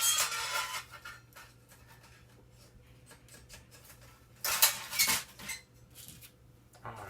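Metal parts of an old Black & Decker toaster oven clinking and scraping as it is pried apart by hand. There is a clatter at the start, a few light clicks, then a louder clatter about four and a half seconds in.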